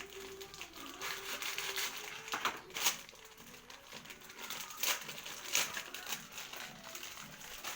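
Crinkling and rustling handling noise, with a few sharp clicks, the loudest about three and five seconds in.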